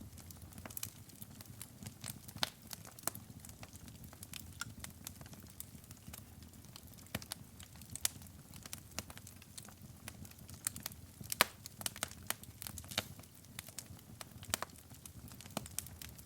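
Wood fire burning in a fireplace, crackling with irregular sharp pops over a soft low rumble of the flames, the loudest pop a little past eleven seconds in.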